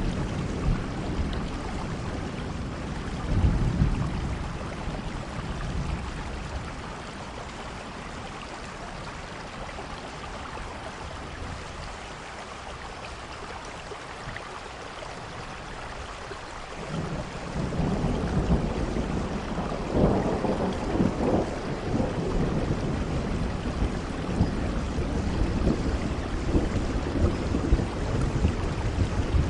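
Steady rainfall with a deep rumble underneath; the rumble dies down for a while, then swells up again about seventeen seconds in and surges unevenly.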